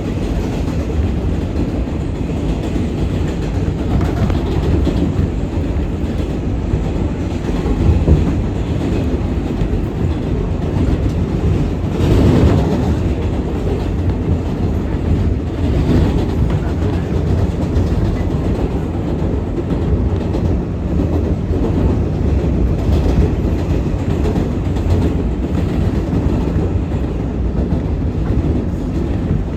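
R188 subway train running at speed: a steady rumble of wheels on rail, with clickety-clack over rail joints. Brief louder swells come about 8 and 12 seconds in.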